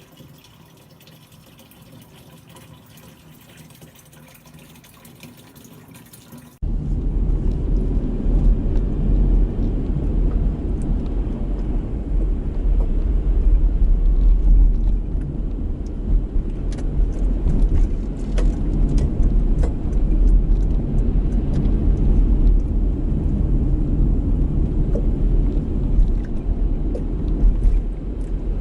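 Strong, gusty wind buffeting the microphone: a deep rumble that surges and eases irregularly, with faint ticks over it. It comes in abruptly about six seconds in, after a quieter steady hiss.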